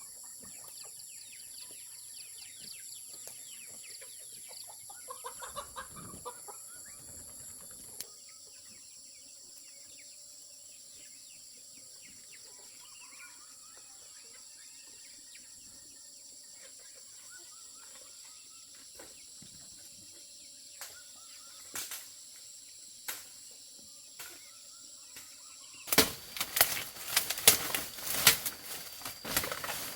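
Chickens clucking, then a loud flurry of wing flapping and scuffling near the end, over a steady high-pitched drone.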